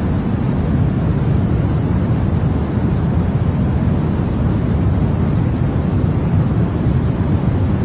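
Continuous white-noise sleep sound for babies: an even, unbroken rushing hiss, deep rather than bright, that holds steady with no changes.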